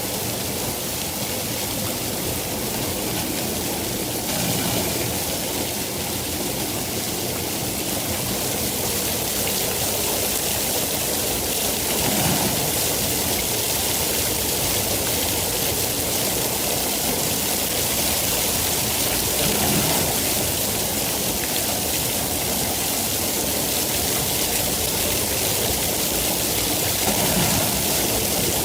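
Steady rain, an even hiss, with four brief low swells through it.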